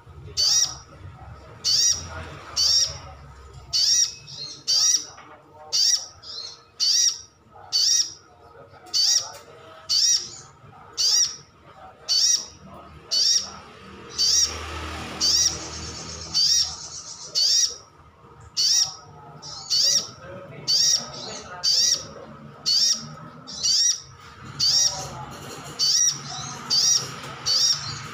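Sunbird (kolibri sogon) calling: a short, sharp, high call repeated over and over, about once a second, sometimes in quick pairs.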